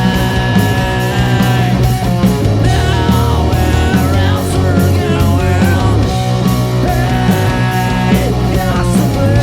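Rock band playing live and loud: electric guitars, bass and drums keeping a steady beat, with a lead line bending in pitch over the top.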